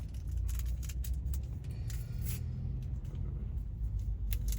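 Steady low rumble of a semi truck's engine heard inside the cab, with scattered light clicks and rattles.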